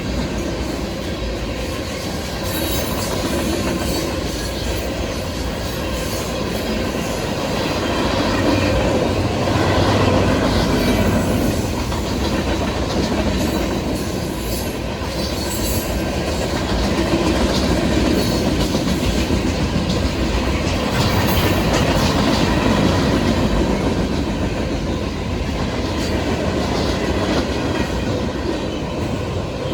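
Freight cars of a manifest train rolling past, steel wheels clicking over rail joints in a steady clickety-clack, with a few brief high wheel squeals.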